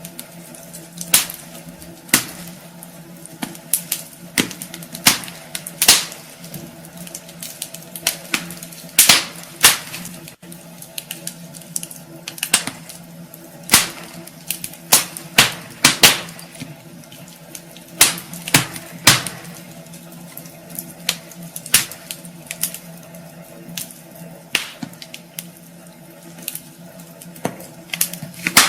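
Wood fire crackling in a fireplace: burning logs give off irregular sharp pops and snaps, some loud, a few each second at uneven intervals, over a steady low hum.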